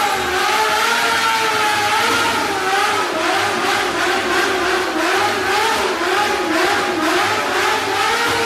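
Sport bike engine held at high revs in a burnout, its pitch wavering up and down as the throttle is worked, with the rear tyre spinning on the spot.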